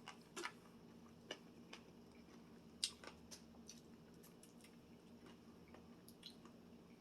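Quiet chewing of food close to the microphone: a few faint, scattered mouth clicks and smacks over near silence, the plainest one about three seconds in.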